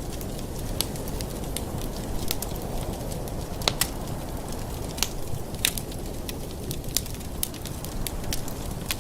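Wood fire in a fireplace crackling, with irregular sharp pops over a steady low rumble of the flames; a couple of louder pops come near the middle.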